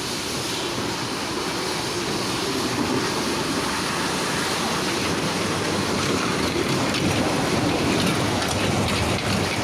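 Train running past: a steady rushing rumble of wheels on rails that grows slightly louder toward the end.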